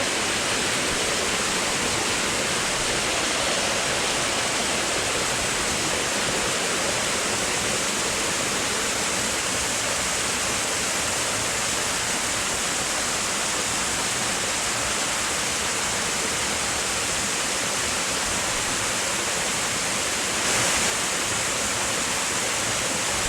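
Waterfall rushing: a steady, even noise of falling water. Near the end it briefly swells louder for about half a second.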